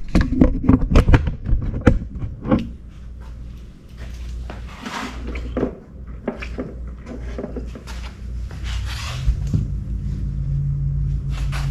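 A run of knocks and clatter, then a steady low hum, with a stronger, slightly higher drone setting in about nine seconds in: the boat's outboard motor being cranked and not yet running, after new ignition coils were fitted to cure a crank-but-no-start fault.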